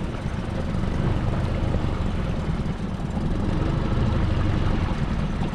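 Small boat's outboard motor running steadily, with the choke kept on to keep the ailing motor going.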